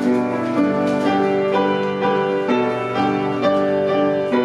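A keyboard instrument playing a hymn in slow, steady chords, each chord changing every half second to a second.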